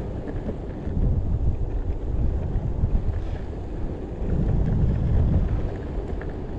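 Wind buffeting the microphone over the low, uneven rumble of an electric skateboard's wheels rolling on pavement.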